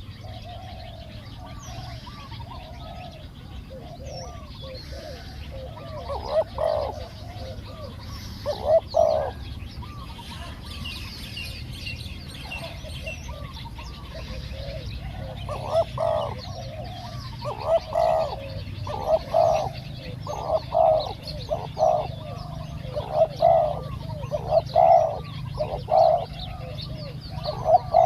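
Spotted doves cooing in repeated phrases, the coos coming more often in the second half, with small birds chirping faintly behind.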